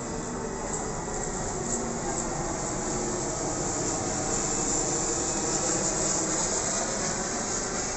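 Aircraft engine noise: a steady rushing noise with a strong hiss, swelling gently to a peak about six seconds in and easing slightly near the end.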